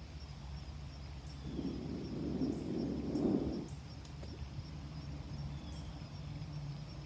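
A slow, deep breath lasting about two seconds, starting about a second and a half in. It sits over a steady low hum and faint high chirps that repeat about once a second.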